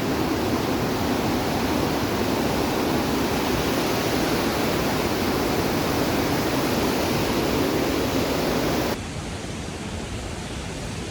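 Steady rush of fast-flowing water from a mountain river or waterfall. About nine seconds in it cuts suddenly to a quieter, thinner hiss.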